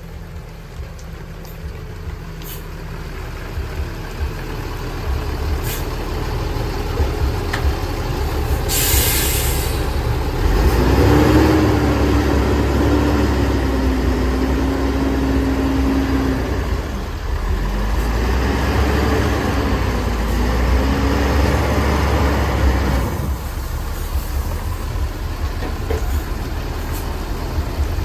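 Heavy diesel bus and truck engines labouring past, growing louder, with a short air-brake hiss about nine seconds in. From about eleven seconds a droning engine note rises and dips in pitch for some ten seconds, then fades.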